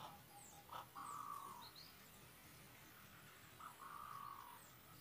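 Faint bird calls: a whistled call, a short note then a longer level one, given twice, with fainter high chirps between.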